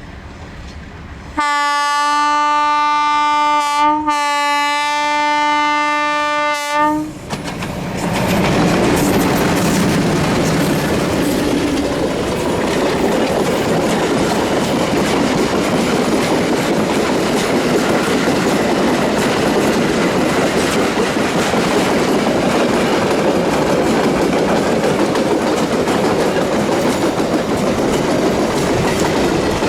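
A train's locomotive horn sounds about a second and a half in and holds for about five seconds, briefly broken midway. The train then rolls past with the steady rumble and clickety-clack of its wheels on the rails.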